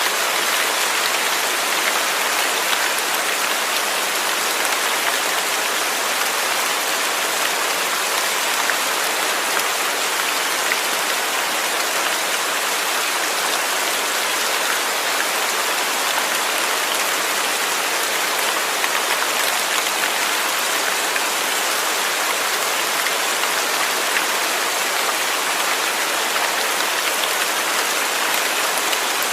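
Steady rain falling on a surface, an even hiss with scattered patter of individual drops.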